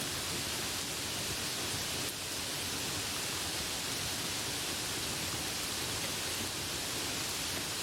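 Steady rain, a dense, even hiss of falling drops.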